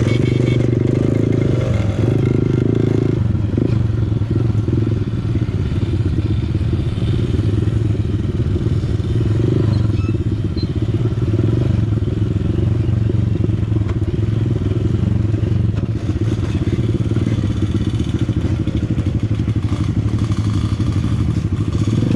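Dirt bike's engine, likely a Honda CRF150L single-cylinder four-stroke, running continuously at a fairly steady pitch while being ridden on a trail.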